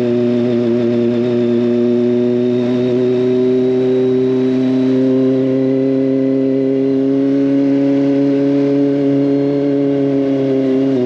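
Kawasaki ZX25R's inline-four engine through an SC Project exhaust, running at steady high revs under way. Its pitch climbs gently over several seconds and eases off slightly near the end.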